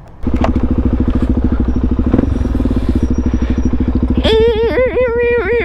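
A 400 cc supermoto motorcycle engine starts about a quarter second in and runs at idle with a rapid, even beat. Near the end a voice calls out briefly over it.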